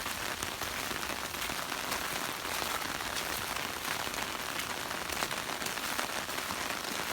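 Steady rain falling, a dense even patter of drops after a thunderstorm.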